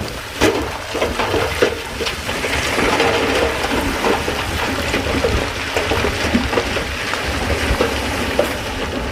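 SHANTUI bulldozer pushing stone: a dense rushing clatter of rocks sliding and knocking together, with many sharp knocks over the low rumble of the diesel engine.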